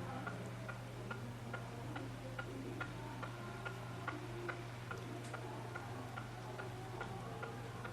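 Steady, even ticking, about two and a half ticks a second, over a low steady hum.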